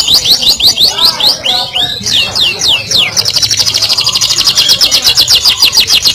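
Domestic canary singing loudly in fast rattling trills of short downward-sweeping notes, about ten a second. Around two seconds in the trill breaks into a few slower falling notes before the rapid run resumes.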